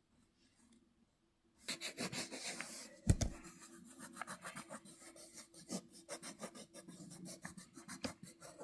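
Coloured pencil scribbling on paper, colouring in a picture: a long run of quick scratchy back-and-forth strokes that starts a couple of seconds in. There is one dull knock about three seconds in.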